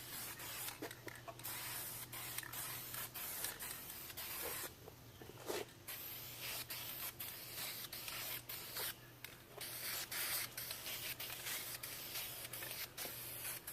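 Aerosol rattle can of Duplicolor wheel paint spraying gloss black onto a steel wheel: a hiss in long passes, broken by short releases of the nozzle, with longer pauses about five and nine seconds in.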